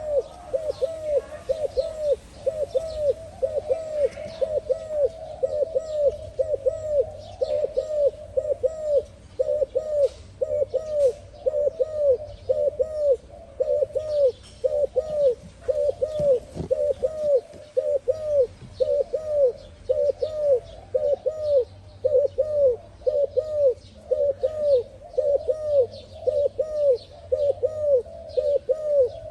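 Dove cooing: an unbroken run of short, low coo notes in quick groups, with faint higher chirps of small birds behind.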